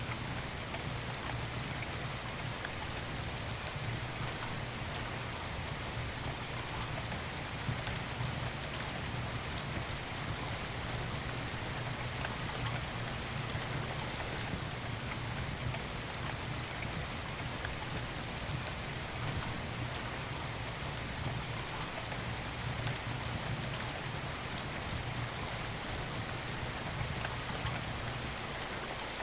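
Steady rain falling, with a few scattered faint crackles from a wood fire.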